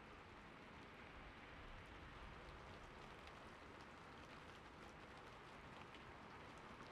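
Faint, steady gentle rain as a background track, with a few faint scattered ticks.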